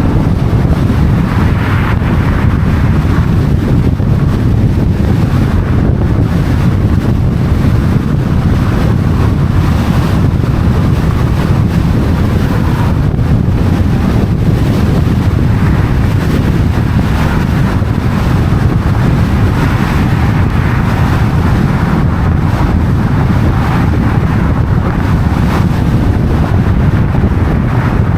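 Loud, steady low rumble of wind buffeting the microphone, with city street traffic beneath it.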